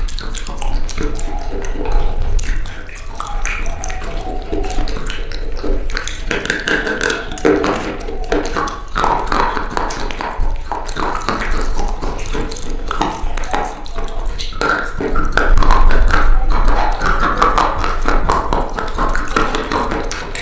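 Close-miked crunching: a dense, continuous run of crackles and clicks.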